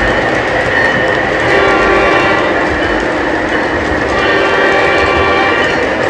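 O gauge model trains running on the layout: a steady rumble of wheels and motors on the track, with the horn of a model diesel locomotive's electronic sound system sounding about one and a half seconds in and again around four seconds in.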